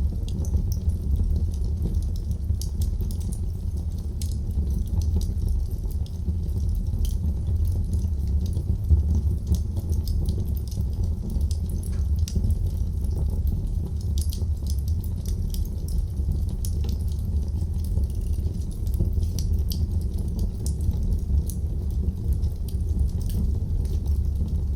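Wood fire burning in a fireplace: a steady low rumble with many small, sharp crackles and pops scattered irregularly through it.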